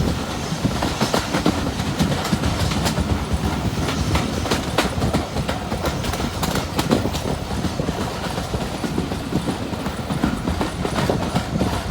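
A train running along the track, its wheels clicking irregularly over the rail joints above a steady rolling rumble.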